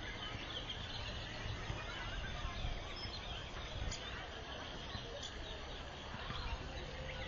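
Birds chirping and calling, many short scattered chirps, over steady outdoor background noise with a low rumble underneath.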